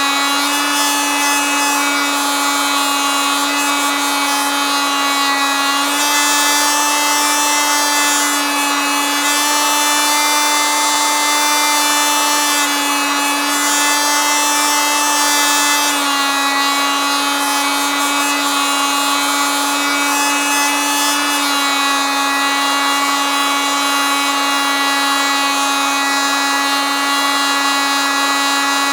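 Oscillating multitool running continuously: a steady, high buzzing whine whose pitch shifts slightly every few seconds.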